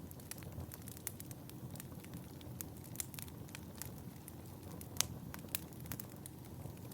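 Wood fire crackling in a fireplace: frequent small irregular pops over a low steady rumble of the flames. Two sharper pops come about five seconds in, half a second apart.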